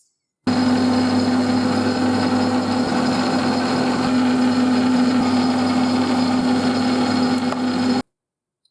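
Electric machine tool motor running at a steady speed with a constant hum, cutting in abruptly about half a second in and stopping abruptly near the end.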